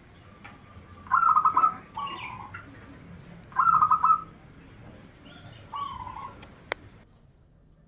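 Zebra dove (perkutut) cooing: twice, a quick stuttering run of notes followed by a lower drawn-out note, then a shorter single call near the end. A single sharp click follows the last call.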